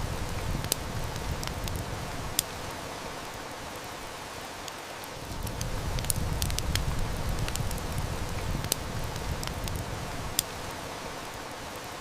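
Steady heavy rain hiss with a wood fire crackling and snapping, a few sharper pops standing out. A low rumble swells and fades twice underneath.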